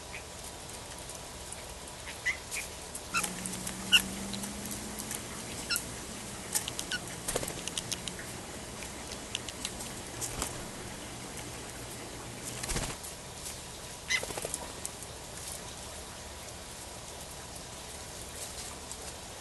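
Backyard songbirds at a feeder: scattered short chip calls and clicks over a steady hiss, with a brief flutter of wings about two-thirds of the way through.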